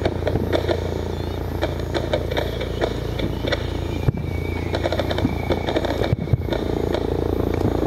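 Distant aerial fireworks shells bursting, heard as repeated pops and crackles over a steady low background noise, with sharper reports about four and six seconds in.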